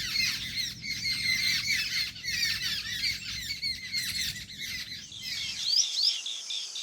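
A flock of jungle babblers chattering: many overlapping squeaky, chirping calls at once, with a few rising squeals near the end. Under it runs a low rumble that stops about five and a half seconds in.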